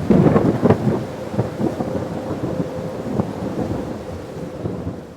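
Thunder rumbling and crackling over steady rain, loudest in the first second and dying away toward the end, with a faint steady tone underneath.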